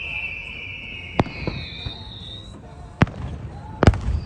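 Fireworks going off: three sharp bangs, the loudest near the end, with high whistles sliding down in pitch in between.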